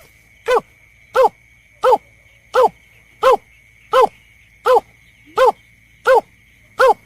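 Recorded snipe (berkik) lure call: a short, sharp arched note repeated evenly about every three-quarters of a second, around ten times, with a faint steady high-pitched whine running beneath.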